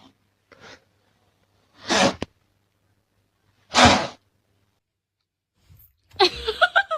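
Two sneezes, short and sharp, about two seconds apart.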